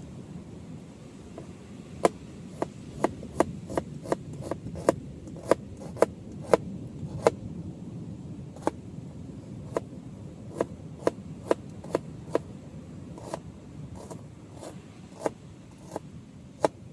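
Knife chopping on a wooden cutting board resting on a log, most likely cutting onion: a run of sharp knocks, about two a second, from about two seconds in until near the end, slightly uneven in spacing.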